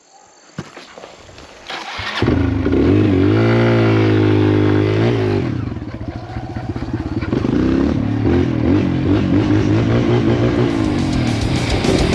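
Dirt bike engine starting up about two seconds in, revving up and holding high for a couple of seconds, then dropping back and running on with the throttle blipped up and down.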